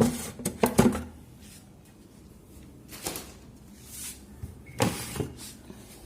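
Plastic refrigerator trays and racks being pulled out and set down: a cluster of knocks and rattles in the first second, then a few single knocks around three, four and five seconds in.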